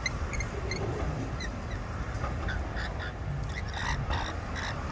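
Lorikeets calling in short, high chirps, more of them near the end, over a steady low rumble.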